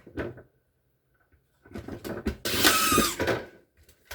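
Refrigerator parts being handled: a burst of scraping and clatter with a wavering squeak, lasting about a second and a half around the middle, then a few light knocks.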